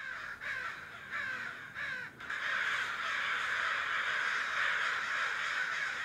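A flock of crows cawing: a few separate caws at first, then about two seconds in many crows cawing over one another in a dense chorus that cuts off suddenly at the end.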